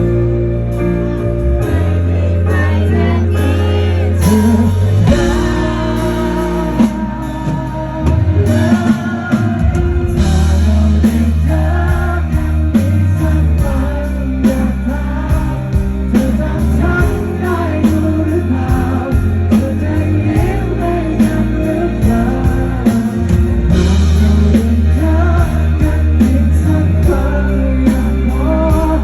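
A full band playing a pop-rock song live: drums, bass and guitars, with a bending melody line carried over them.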